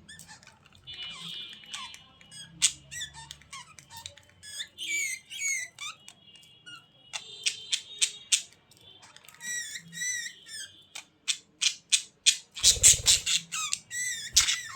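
Budgerigars chattering: quick warbling chirps, squawks and sharp clicks, growing busier and louder near the end.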